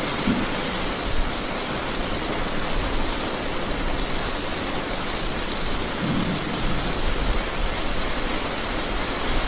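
Steady rain, an even hiss, with brief low rumbles of thunder just after the start and again about six seconds in.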